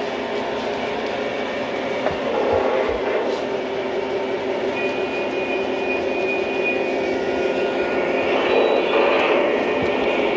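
Lionel model train running on its track: a steady electric-motor hum with wheel noise on the rails, and a thin high squeal from about five to eight seconds in.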